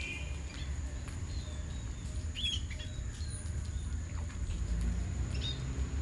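Short bird chirps, once about two and a half seconds in and again near the end, over a steady low rumble and a thin, constant high tone.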